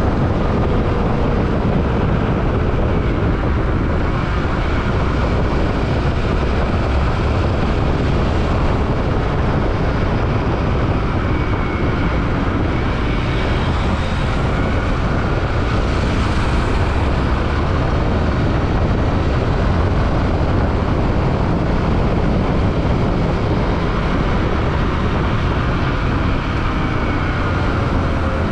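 Yamaha WR155R motorcycle on the move: a steady rush of wind and road noise over the engine drone, its pitch drifting slowly up and down with the throttle.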